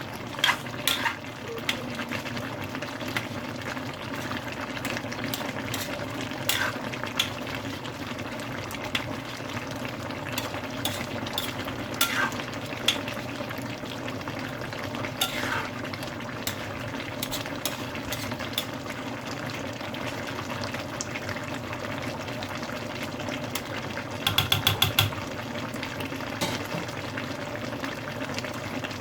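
Chicken curry sizzling in a pan while a utensil stirs it, with scattered clinks and scrapes against the pan and a quick rattle of taps near the end.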